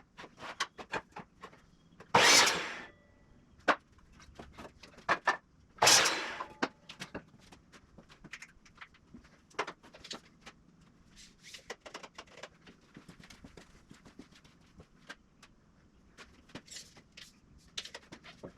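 Scattered clicks and knocks of hand work, with two loud, short rushing noises about two seconds and six seconds in.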